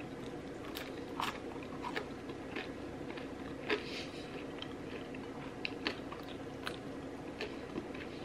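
Close-miked eating sounds: wet chewing with a handful of crisp crunching bites scattered through, over a steady low hum.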